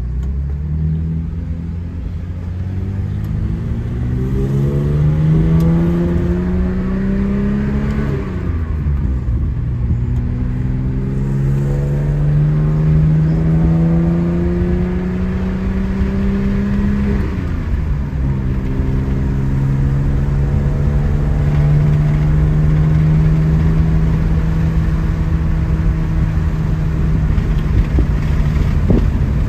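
1972 BMW Bavaria's straight-six engine, heard from inside the cabin, accelerating from low speed. The engine note climbs, drops at an upshift about eight seconds in, climbs again, drops at a second upshift around seventeen seconds, then holds steady at a cruise.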